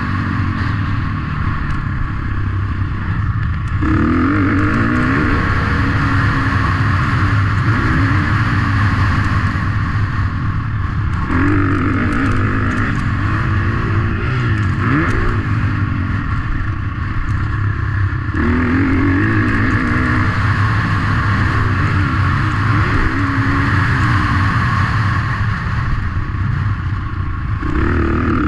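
Motocross motorcycle engines running and revving, their pitch rising and falling. The sound changes abruptly three or four times.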